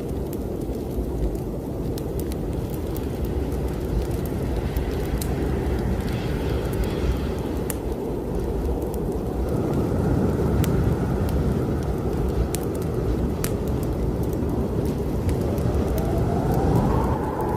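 Strong snowstorm wind blowing in swelling gusts, with a whistling tone that rises near the end, over scattered pops and crackles of a fireplace fire.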